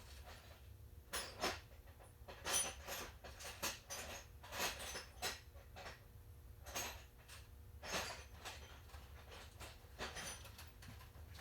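Faint, irregular clicks and clinks of metal hand tools being handled, a socket and extension being fitted and changed.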